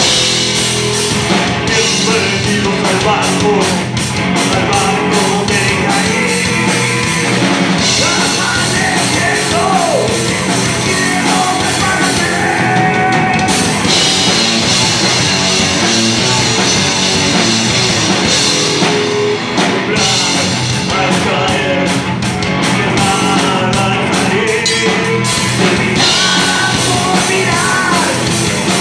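Rock song played by a full band with drum kit and singing.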